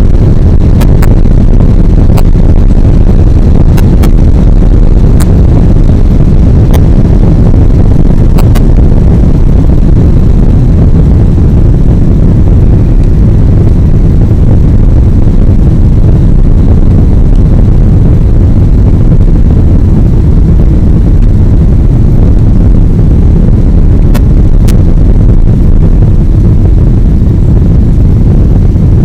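Boeing 777 jet noise as a loud, steady low rumble, with scattered sharp clicks in the first several seconds and again a few seconds before the end.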